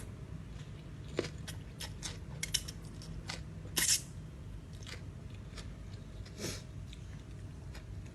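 A person eating close to the microphone, chewing and biting with scattered crisp crunches and mouth clicks, the loudest crunch about four seconds in; the food is khanom jeen noodle salad with crispy squid. A steady low hum runs underneath.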